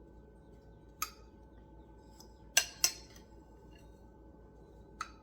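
Sharp clinks of kitchen utensils and dishes as a casserole is put together: one clink about a second in, a quick, louder pair a moment later, and another near the end, over a faint steady hum.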